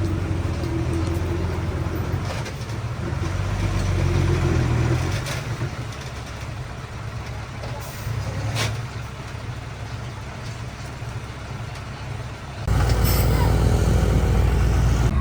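Heavy diesel machinery engine running, swelling in level for a couple of seconds and settling back, with a sharp click about halfway through; near the end the sound jumps suddenly to a louder, deeper engine note.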